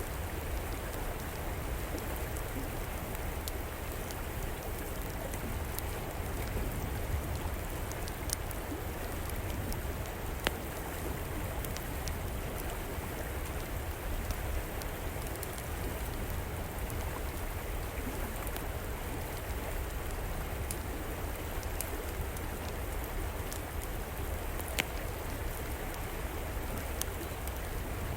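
A river flowing in a steady rush, with the fire in an outdoor fireplace crackling over it in scattered sharp pops.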